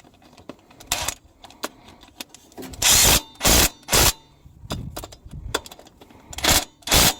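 Hand tools and metal engine parts clanking and rattling in a handful of sharp bursts, a cluster about three seconds in and two more near the end, with lighter ticks between.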